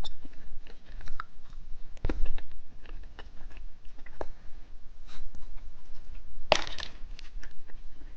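Plastic candy packaging being handled: scattered light clicks and taps, with a louder crinkle about six and a half seconds in.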